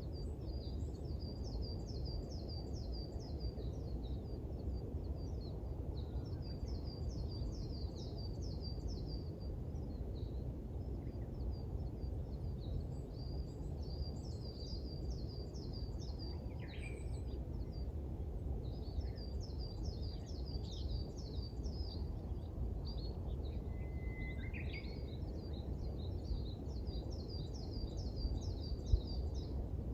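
A songbird singing short phrases of rapid, high chipping notes, each about two to three seconds long and repeated every five to six seconds, over a steady low rumble of background noise. Two brief lower calls come in about halfway through.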